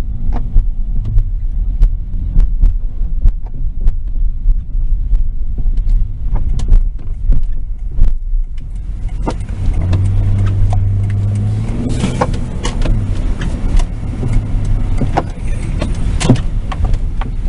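Car on the road, heard from inside the cabin: a steady low rumble with many sharp knocks and clicks throughout. From about nine seconds in a hiss grows louder, with a brief hum a second or so later.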